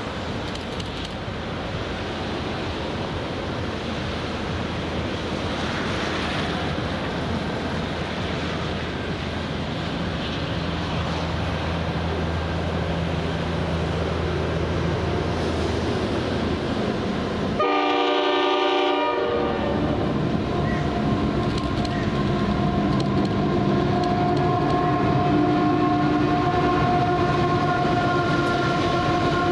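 Standard gauge diesel freight locomotive approaching with its engine running over a steady hiss of rain, sounding a short horn blast about two-thirds of the way through. After the horn, the container wagons roll past with several steady squealing tones from the wheels on the curve.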